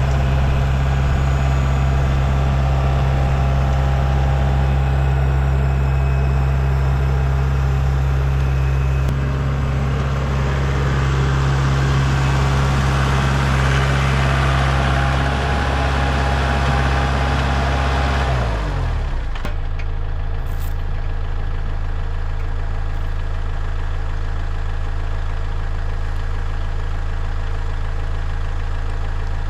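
A vehicle engine running steadily; about 18 seconds in its speed drops and it settles into a lower, steady idle.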